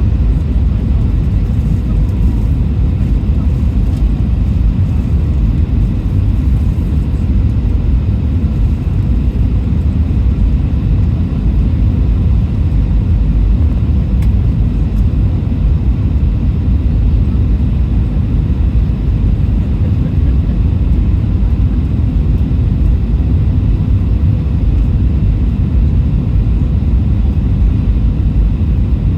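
Steady cabin noise inside an Airbus A320 airliner: a loud, even low rumble of the engines and airflow, heard from a window seat.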